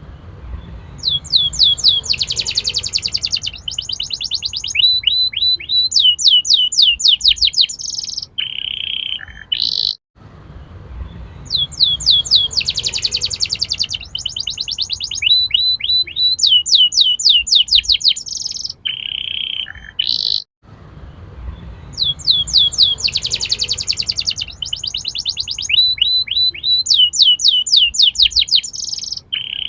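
Domestic canary singing a long, loud song of rapid trills, sweeping whistled notes and buzzy rolls. The same song phrase repeats about every ten seconds, with a brief break between repeats.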